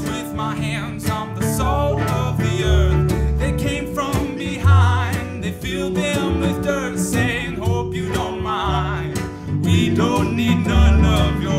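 A country band playing live: guitars, bass and drums with a steady beat, under a wavering lead melody line.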